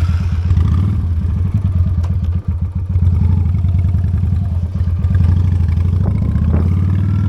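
Honda Steed motorcycle's V-twin engine running with a steady, loud, low pulsing rumble, with a brief dip in level about two and a half seconds in.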